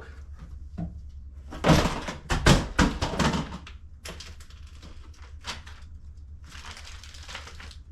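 Packaging being handled as the box is opened: a quick run of knocks, scrapes and rustles about two seconds in, a few single clicks later and a short rustle near the end, over a steady low hum.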